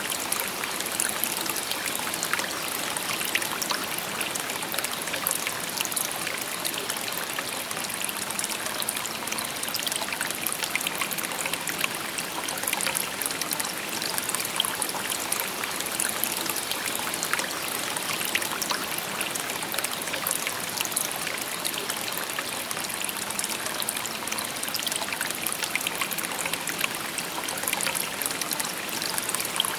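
A shallow river babbling steadily, water rippling and splashing over stones with a bright, fizzing hiss.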